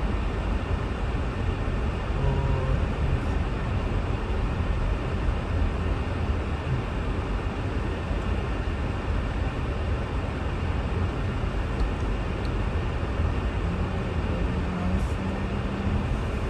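Steady low rumble of road and engine noise inside a car's cabin while driving on snow-covered roads.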